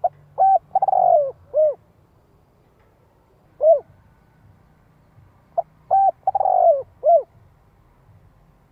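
Spotted dove cooing: a phrase of short coos around a long, falling, drawn-out middle note near the start, a single coo in the middle, then the same phrase again about six seconds in. It is the dove's call used as a decoy to lure wild spotted doves.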